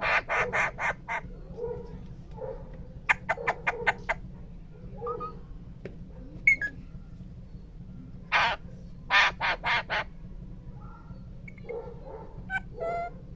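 Parrot calling in quick runs of short, loud squawks: about six at the start, another fast run about three seconds in, a group around eight to ten seconds, and a few more near the end.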